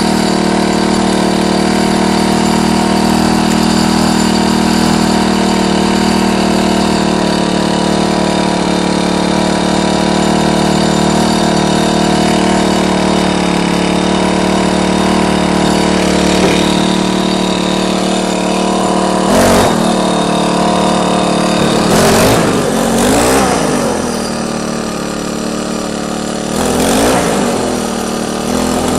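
Troy-Bilt four-cycle string trimmer engine running steadily, then its speed rising and falling three times over the last ten seconds.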